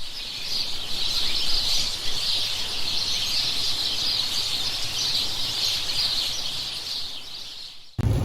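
A dense, steady, high-pitched chorus of chirping wildlife calls. It fades in at the start and cuts off suddenly near the end.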